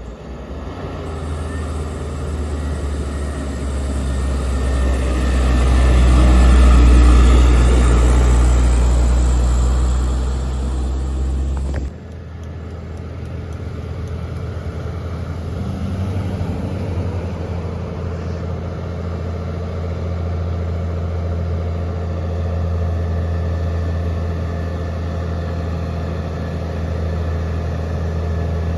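Heavy diesel truck engines labouring up a steep climb. One truck's engine grows louder to a peak about seven seconds in as it passes. About twelve seconds in, the sound cuts abruptly to another truck engine running steadily.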